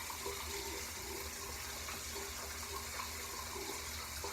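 A steady rushing hiss of background noise, with faint soft sounds over it.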